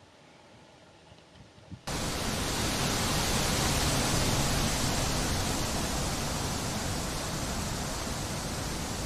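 Wind making a steady, dense rushing hiss. It cuts in suddenly about two seconds in after a faint start.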